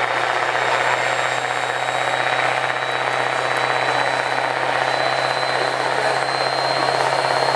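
Diesel pickup truck engine running loud and steady during a truck pull, with a thin high whine that slowly rises in pitch.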